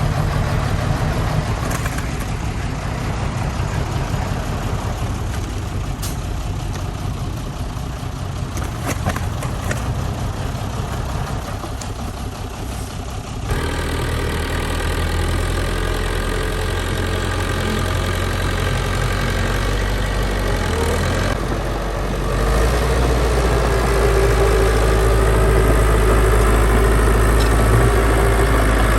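Heavy diesel engines of earthmoving machinery running. The engine sound changes abruptly about halfway through, and a deeper, louder drone sets in near the end.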